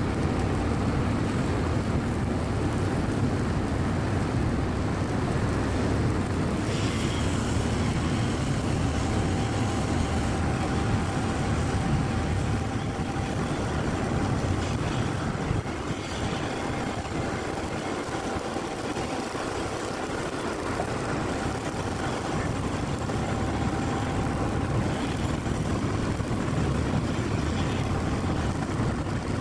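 Stick (SMAW) welding arc burning steadily as a stepped bead is laid, a continuous noisy sound over a low machine rumble.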